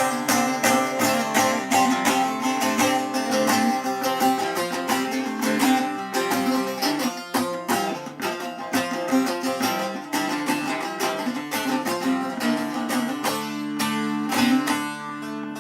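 Instrumental break of a Turkish folk song: a plucked string instrument plays a quick, busy melody over a steady low drone, with no singing.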